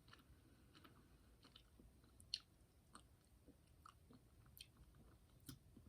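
Faint chewing of a jelly bird egg (a jelly bean candy): quiet, scattered mouth clicks, one a little louder a couple of seconds in.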